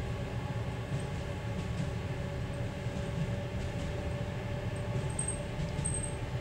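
Passenger train running, heard from inside a seated coach: a steady low rumble, with a faint steady hum above it.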